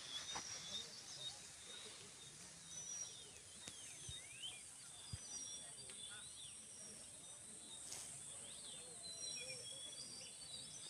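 Small birds chirping and whistling: many short high calls and quick rising and falling notes, faint over a steady high hiss.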